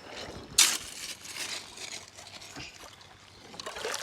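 A small hand shovel scraping and digging into hard, gravelly creek-bank dirt, with one sharp scrape about half a second in and softer scratching after.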